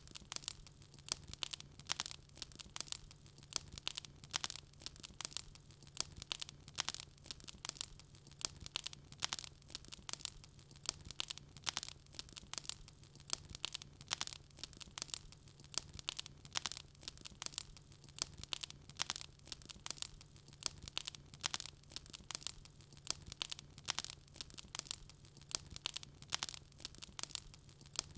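Wood fire crackling: dense, irregular sharp pops and snaps, several a second, over a faint low steady hum.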